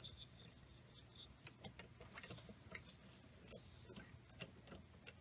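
Faint, irregular light clicks and taps of small metal parts being handled and fitted during assembly of an engine.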